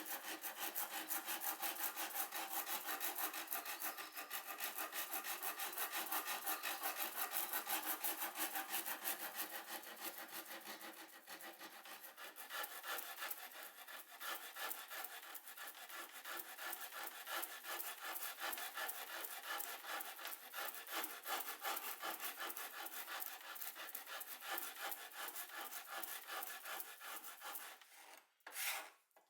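Wood being worked by hand with rapid, even back-and-forth rubbing strokes. The strokes get a little quieter about eleven seconds in and break into a few separate strokes near the end.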